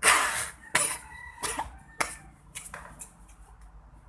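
Mouth beatboxing by a child: a string of short, hissing, breathy percussion sounds, the first and loudest right at the start, the rest shorter and fainter over the next three seconds.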